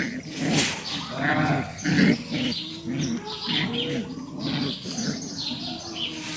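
Puppies whining and yelping in a rapid, overlapping series of short calls, with birds chirping behind them.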